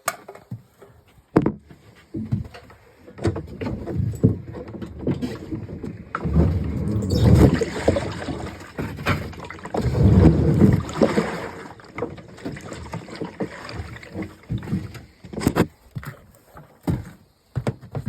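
A snowmobile being turned over and shifted by hand: scattered knocks and clunks, with two longer rough scraping rumbles about six and ten seconds in.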